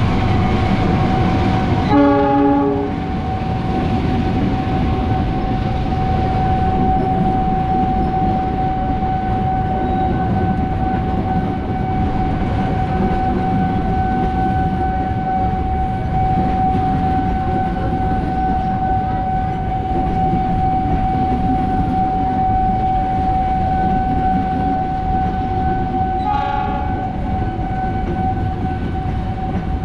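Train running through the station with a steady rumble, its horn sounding twice: a blast of about a second near the start and a shorter one near the end. A steady high-pitched tone runs underneath.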